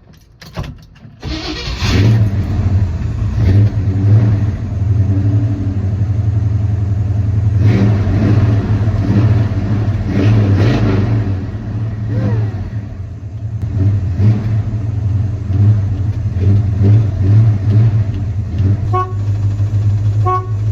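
Truck engine starting just after a second in, then running loudly with repeated revs. A few short horn toots come near the end.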